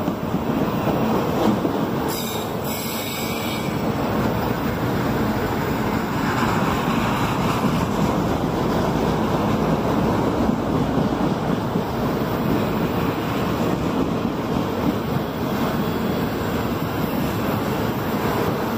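Autorack cars of a CSX freight train rolling past on the rails with a steady rumble and rattle of wheels.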